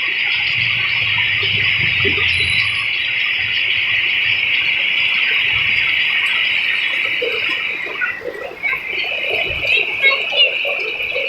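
Steady hiss of heavy rain falling, dipping briefly about eight seconds in.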